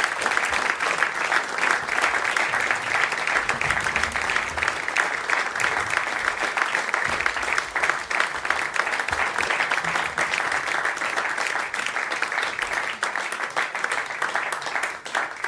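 Concert audience applauding, dense and steady clapping that thins out near the end.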